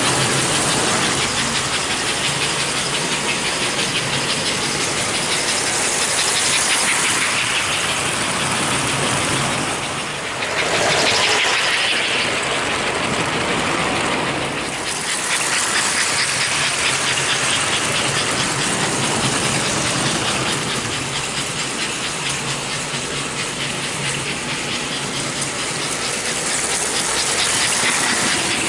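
American Flyer #356 S-gauge toy steam locomotive running on its track: a steady, hissing rush of its motor, gearing and wheels on the rails. The level dips briefly about ten seconds in and again near fifteen seconds.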